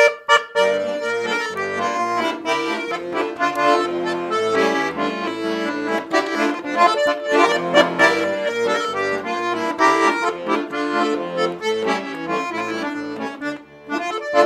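Accordion playing the instrumental introduction to a folk-style song: a melody over a bass-and-chord accompaniment.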